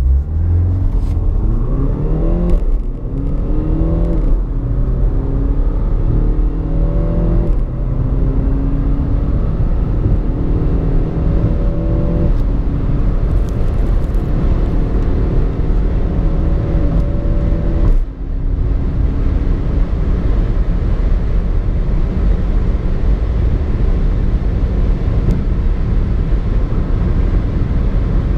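BMW X1 xDrive 25d's four-cylinder diesel engine under hard acceleration. Its pitch climbs through each gear and falls back at upshifts about 2.5, 4, 7.5, 12 and 18 seconds in, then settles into a steadier drone at speed.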